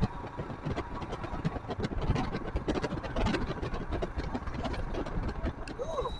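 Royal Enfield Himalayan's 411 cc single-cylinder engine running while the motorcycle is ridden, heavily mixed with wind buffeting on the microphone. The sound cuts off abruptly near the end.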